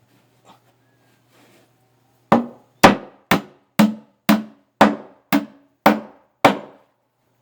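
Hammer striking wood: nine sharp blows at about two a second, starting a little after two seconds in, each ringing briefly.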